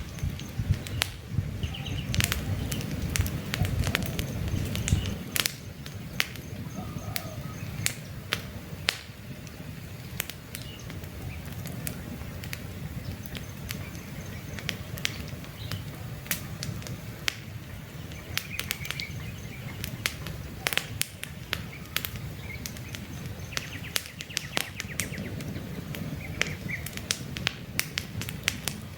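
Wood campfire crackling, with many sharp pops throughout and a low rumble of flame that is stronger for the first five seconds. Birds chirp faintly in the background now and then.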